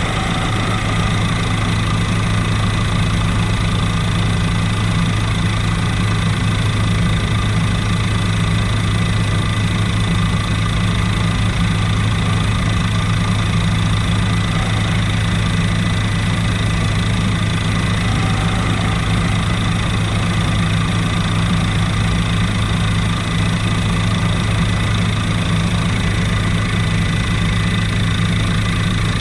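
Helicopter in flight heard from inside the cabin: a steady, loud drone of rotor and engine with a thin steady high whine above it, unchanging throughout.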